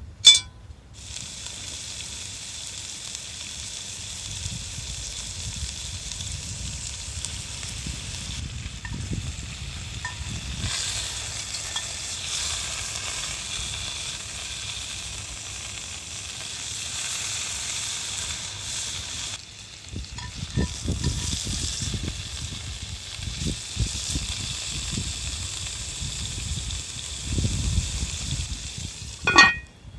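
Pork sizzling as it sears in a cast-iron Dutch oven over a campfire, a steady frying hiss with crackling pops. There are sharp metal clinks near the start and near the end.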